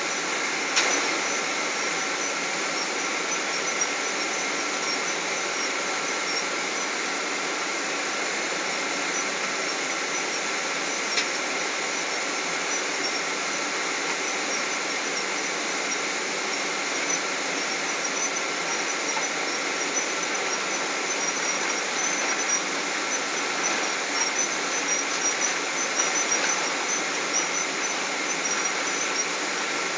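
Steady cabin noise inside a Boeing 777 airliner: the hum of the engines and air conditioning with a constant high whine, and light ticks and rattles from the cabin fittings that become more frequent in the second half.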